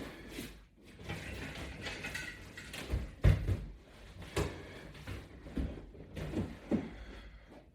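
A series of knocks and thumps, the loudest a heavy thud about three seconds in.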